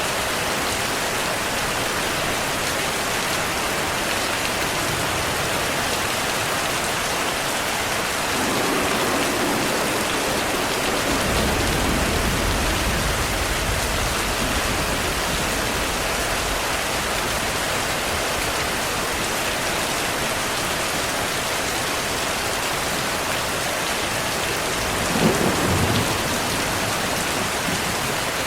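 Heavy rain falling steadily. A long, low rumble of thunder swells about a third of the way in, and a sharper thunderclap comes near the end.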